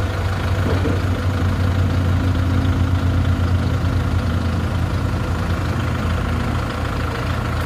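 Vehicle engine running steadily at low revs, an even deep hum with no change in speed.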